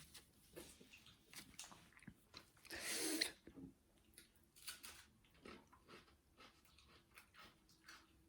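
Faint chewing of noodles, with scattered wet mouth clicks and one louder breathy rush about three seconds in.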